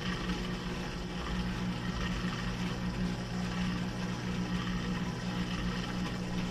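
Washing machine running mid-cycle: a steady motor hum with the swish of water.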